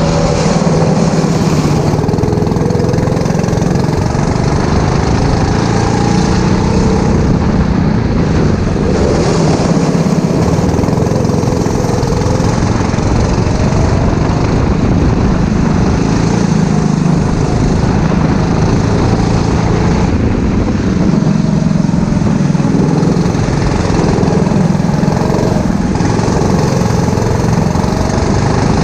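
Racing kart's small engine running hard and continuously, its pitch repeatedly rising and falling as the throttle is opened and lifted through corners.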